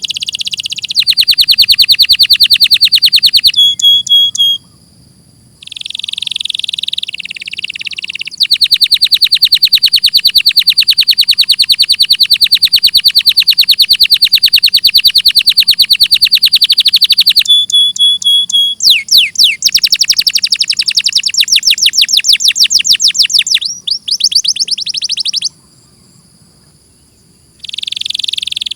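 Domestic canary singing: long trills of rapid repeated high notes, one running about nine seconds unbroken, with short pauses about five seconds in and near the end.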